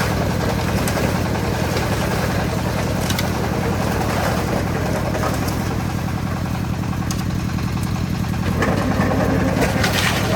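Concrete mixer's engine running steadily with a fast, even low throb, and a few light clicks over it.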